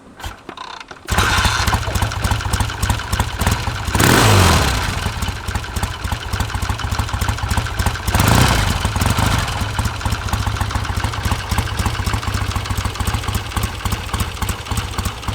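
1966 Triumph Bonneville T120R 650cc parallel-twin engine starting about a second in and settling into an even idle. It is revved twice, about 4 s and 8 s in, each time rising and falling back to idle.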